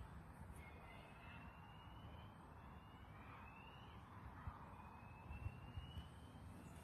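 A bird calling faintly: a run of about five thin whistles, each rising slightly in pitch and lasting about a second, over a low wind rumble.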